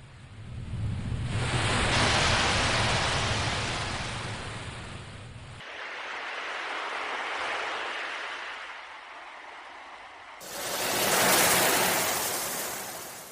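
Ocean waves surging in and washing back, three swells of surf rising and fading, joined by abrupt edits.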